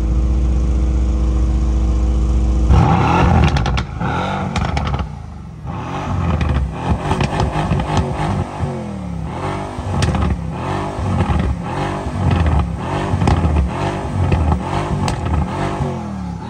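Mercedes-AMG C63 S coupé's stage 1 tuned twin-turbo V8, heard at the tailpipes. It idles steadily, then gives a sudden hard rev a little under three seconds in, followed by a string of quick throttle blips about one a second, with sharp cracks from the exhaust among them.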